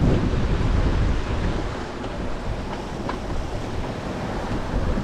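Strong wind rushing and buffeting over the microphone, with waves washing around a sailing yacht under way.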